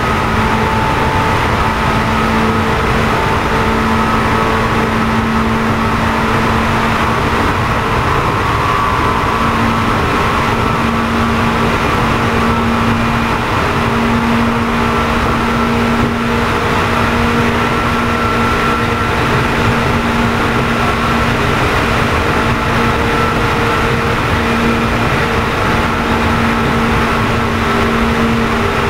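Running sound inside a JR East 211 series EMU motor car, MoHa 211-1, whose traction motors have the external-fan type cooling and which is known as an odd-sounding car. Steady motor and fan hum with several held tones over wheel-and-rail rumble, the train under way at a steady pace.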